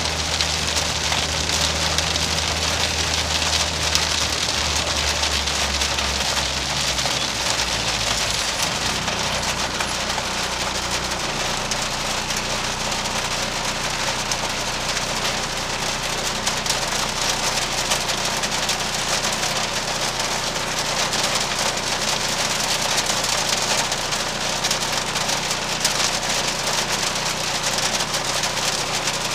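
Inside the cabin of a Škoda Fabia RS TDI rally car: the diesel engine running steadily at low revs under a constant hiss. The engine's low note shifts about eight seconds in and settles on a new pitch a few seconds later.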